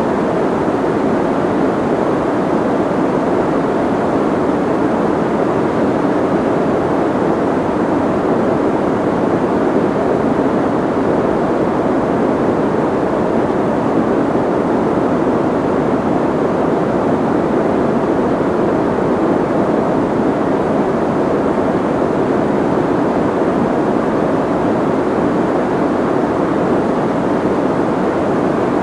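Soft white noise: a steady, unchanging hiss, dull rather than bright, with most of its weight in the low middle and little in the highs.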